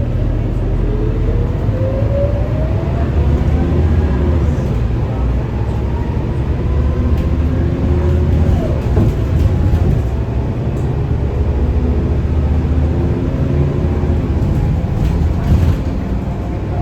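Scania K230UB city bus's five-cylinder diesel engine and automatic gearbox heard from inside the bus while accelerating: a whine rises in pitch over the first few seconds, drops about eight and a half seconds in as the gearbox shifts, then climbs again.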